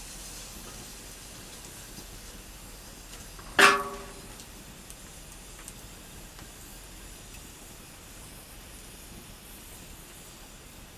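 Wood fire burning in a fire stand with a steady soft hiss, broken about three and a half seconds in by one loud sharp knock that rings briefly and dies away.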